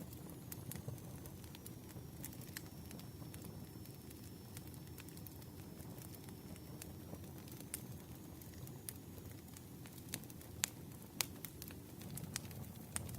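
Campfire crackling: a steady low rumble of burning wood with scattered sharp pops and snaps, two louder pops a little past the middle.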